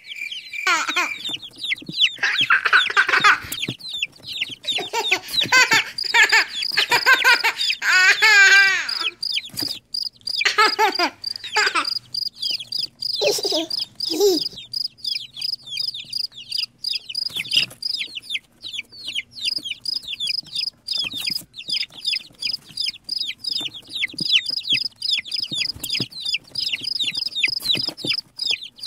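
Chickens calling: loud, lower-pitched squawking calls through about the first half, then rapid, high-pitched chick peeping that runs on without a break.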